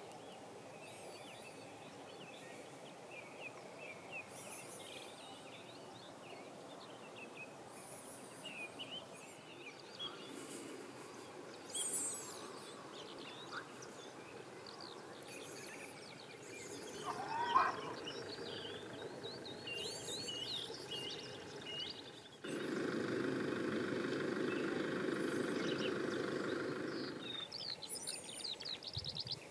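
Small birds chirping and singing over quiet outdoor background noise. A louder steady sound comes in suddenly about 22 seconds in and cuts off about five seconds later.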